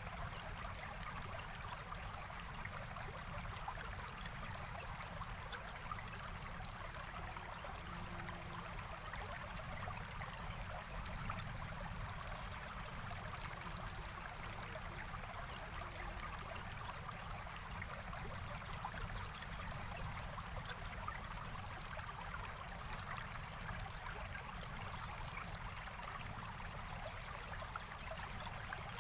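A forest stream flowing, a steady, unbroken rush of water.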